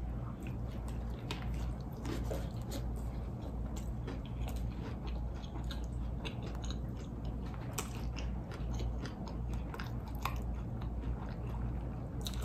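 Close-up eating sounds: a bite into a fried chicken sandwich, then steady chewing with irregular crunches and small wet mouth clicks, over a low steady hum.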